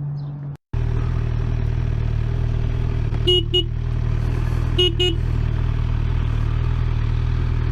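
A vehicle engine running steadily at an even speed, with two short double horn beeps, one about three seconds in and one about five seconds in.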